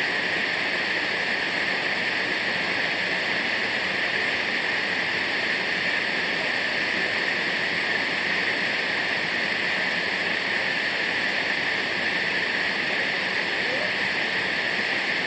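Waterfall rushing with a steady, even noise.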